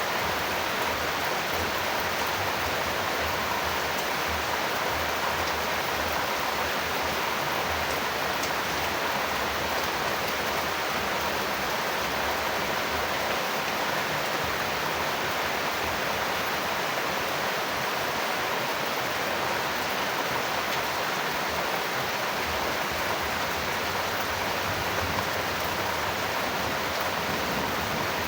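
Steady, unbroken hiss of heavy rain falling.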